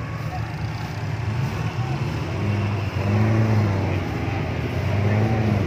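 Off-road Suzuki Jimny 4x4 engine running at low speed, revved up and back down twice, about three and five seconds in.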